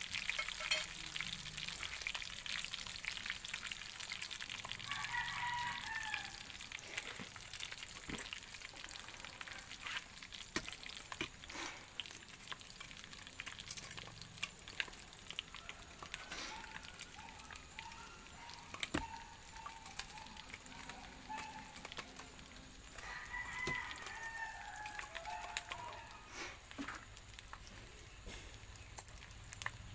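Food frying in a pan: a steady sizzle with frequent crackles and pops. A rooster crows several times in the background.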